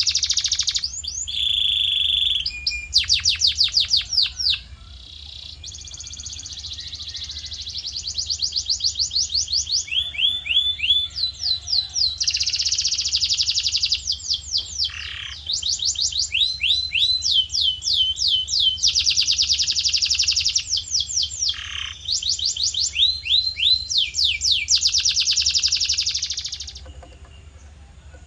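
Male canary singing a long song of fast trills: runs of rapidly repeated sweeping notes and dense rolls, phrase after phrase, stopping near the end.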